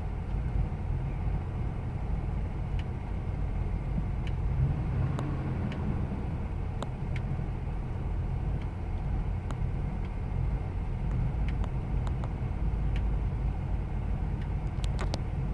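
2000 Ford Expedition's 5.4-litre V8 idling rough: a steady low rumble with a few faint scattered ticks.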